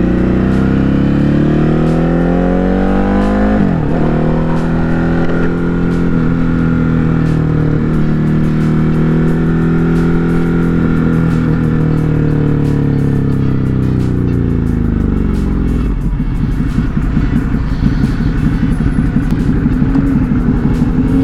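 Ducati Hypermotard 950 RVE's L-twin engine pulling through a gear with rising revs, a quick upshift about four seconds in, then holding steady speed before the revs fall away. From about sixteen seconds it runs at low revs with a rapid pulsing beat, over wind noise.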